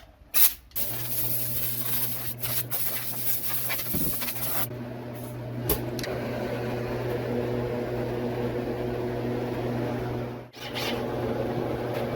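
A handheld power tool running steadily on the truck's rusted sheet-metal body panel, with a low hum under a hiss. It cuts out briefly about ten seconds in and starts again.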